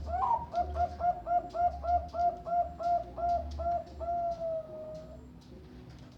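Zebra dove (Bangkok-line perkutut) singing: a quick string of about a dozen short coos, roughly four a second, ending in one long drawn-out note.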